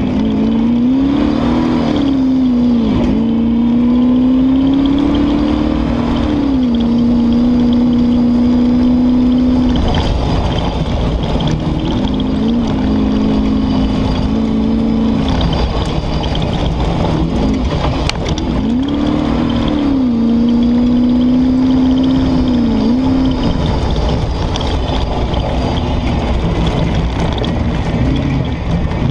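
Comp safari car's engine heard from inside the cab, working hard while driving a grass course. Its note holds steady, then drops and climbs back every few seconds as the throttle comes off and on. There is one sharp knock about eighteen seconds in.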